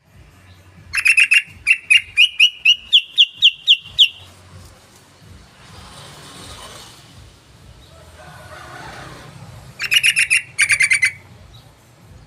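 Yellow-vented bulbul (trucukan) calling: a run of quick chattering notes that climbs slightly in pitch over about three seconds, then another short, fast burst near the end. A low hum runs underneath.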